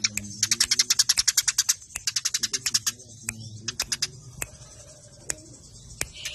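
Eurasian tree sparrows (burung gereja) squabbling, giving rapid dry chattering calls: a fast run of about ten notes a second for the first couple of seconds, then looser bursts and scattered single chips in the second half.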